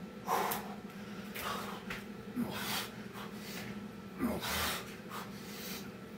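Heavy, forceful breathing of a man working hard through Navy SEAL burpees, with a loud breath every second or so. A steady low hum sits underneath.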